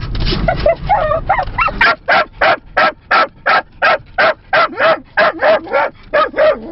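Small dog barking over and over: a jumble of quick yaps for about two seconds, then a steady run of short, sharp barks at about three a second.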